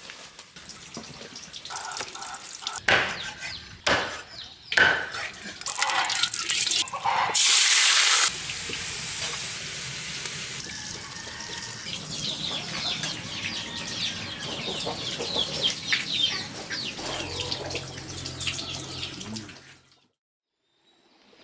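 Water running and splashing, with several sharp knocks and a brief loud rush in the first part; it cuts off suddenly near the end.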